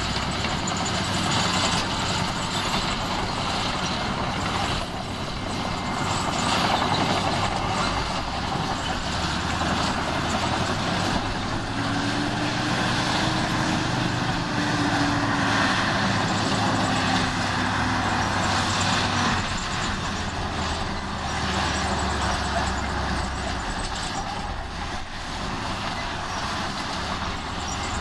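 Heavy diesel earthmoving machinery running continuously, with a whine that rises and then falls for several seconds around the middle.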